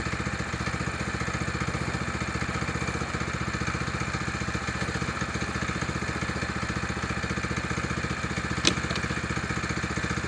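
Sawmill head's engine idling steadily with an even, rapid beat. One sharp knock comes near the end.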